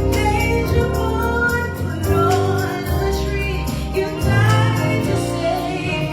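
Gospel choir singing with instrumental accompaniment, over held bass notes and sustained chords, with sharp beats running through.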